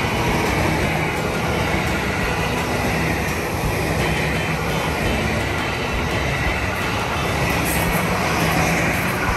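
A train running past on the rails, a steady, unbroken noise of the train in motion.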